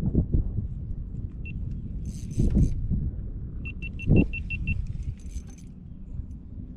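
Wind buffeting the microphone as a steady low rumble, with a few dull thumps and a quick run of about seven small clicks about four seconds in.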